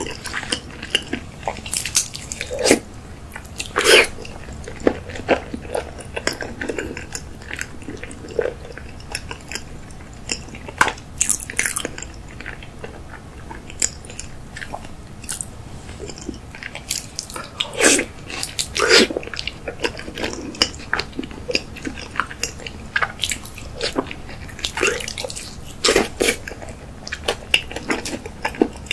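Close-miked mouth sounds of chewing a big mouthful of raw salmon sushi: wet smacks and clicks in an irregular pattern.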